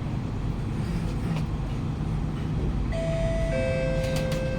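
Steady low rumble inside a Kawasaki–CRRC Sifang C151A train carriage running between stations. About three seconds in, the train's PA plays a two-note falling chime, the signal ahead of the next-station announcement.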